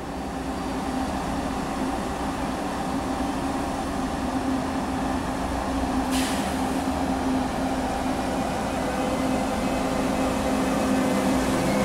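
Frecciarossa ETR 500 electric high-speed train pulling slowly into the platform, its steady electric hum and rumble growing louder as it approaches. There is a short hiss about six seconds in.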